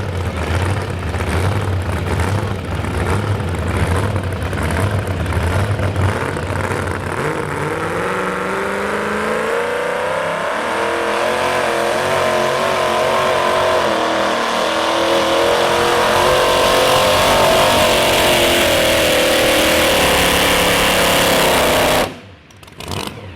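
Modified two-wheel-drive pulling truck's engine at full throttle pulling the sled, its pitch climbing steadily as the run goes on, then easing slightly before the sound stops abruptly near the end.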